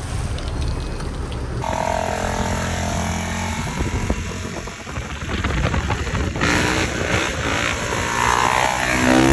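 Motorbike engines running during a ride, with a steady engine note that gets louder about six and a half seconds in as an engine revs and its pitch glides.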